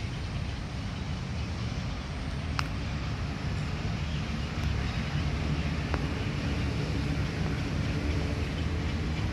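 Steady low rumble of road traffic that grows a little louder about halfway through, with two faint sharp clicks.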